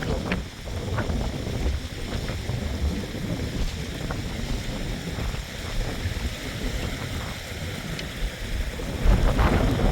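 Wind buffeting the microphone in a storm: a gusty low rumble that swells about nine seconds in.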